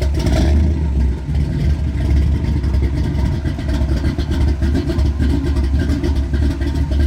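Early-1930s Ford's V8 engine running loud, a steady, rough, deep rumble.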